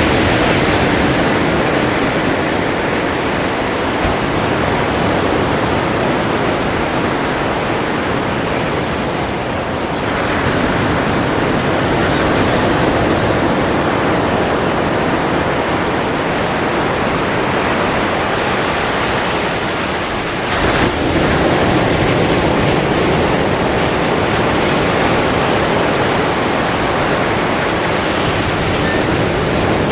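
Ocean surf: a steady wash of waves, with fresh waves breaking about ten seconds in and again about twenty seconds in.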